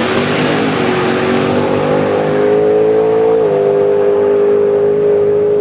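Twin-turbo Corvette V8 at full throttle on a drag pass, its pitch climbing and then dropping at an upshift about three and a half seconds in. The sound grows duller as the car pulls away down the strip.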